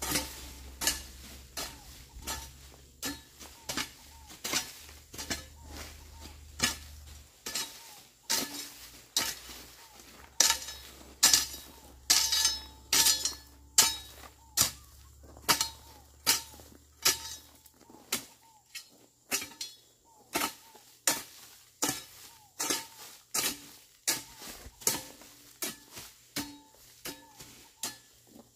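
Metal hoe blade chopping into soil and weeds during hand weeding: a steady rhythm of sharp strokes, a little under two a second, each with a bright metallic chink.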